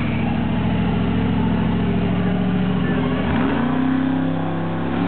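Monster truck engine running at a steady, loud note, then revving up sharply about three seconds in and holding the higher pitch.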